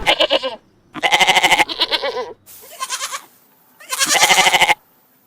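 Farm livestock bleating: five quavering bleats about a second apart, the fourth one fainter.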